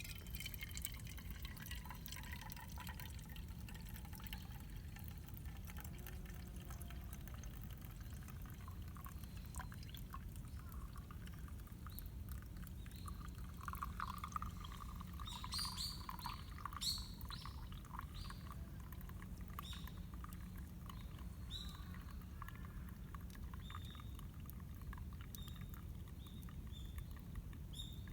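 Liquid being poured, over a steady low background rumble and scattered light crackles.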